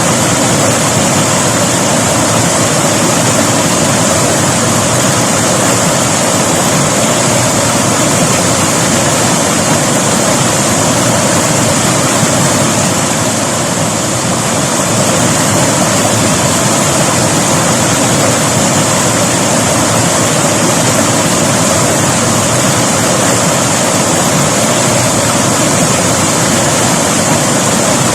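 River water rushing and splashing steadily over rocks, a loud even roar with no break, dipping slightly about fourteen seconds in.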